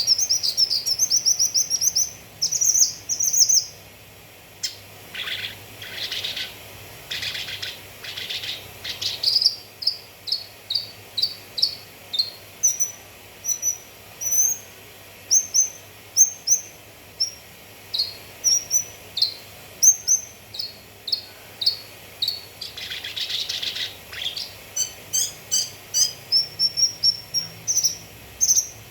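Cucak kinoi song: a long run of short, high chirps repeated at a quick rhythm, broken by rapid trills and a few harsher chattering phrases.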